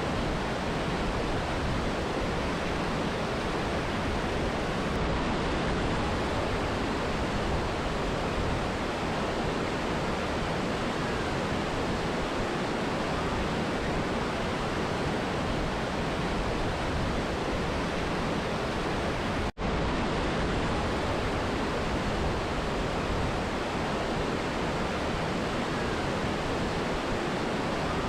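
Mountain river and waterfall: a steady, unbroken rush of water. It cuts out for a split second about two-thirds of the way through.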